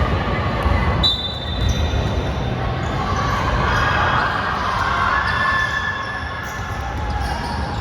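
Basketball bouncing on an indoor court: repeated low thumps of the ball over the general noise of a gym.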